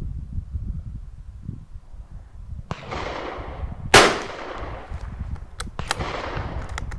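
A single shot from a Tikka T1x .22 LR rimfire rifle about four seconds in, followed by a few light clicks.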